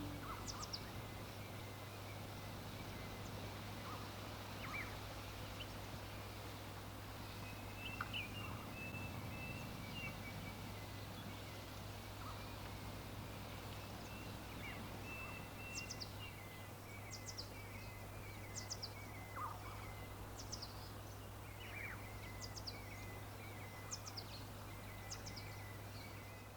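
Faint outdoor ambience with scattered short bird chirps and trilled calls, over a steady low hum.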